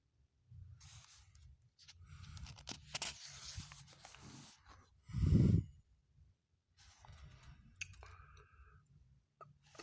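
Irregular rustling and scraping handling noises, with one short, louder dull thump about five seconds in.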